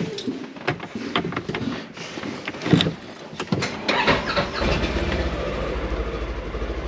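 A few knocks and clatters, then about four seconds in a Polaris Xpedition side-by-side's engine starts and settles into a steady low idle.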